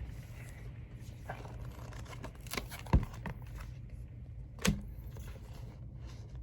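A few sharp knocks or clicks, the loudest about three seconds in and another near five seconds, over a steady low hum.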